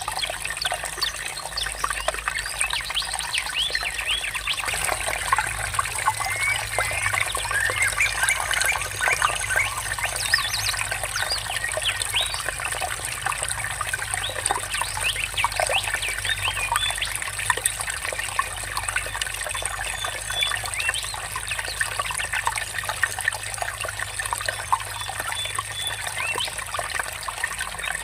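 Water trickling and murmuring steadily, with many small birds chirping over it, busiest in the first half.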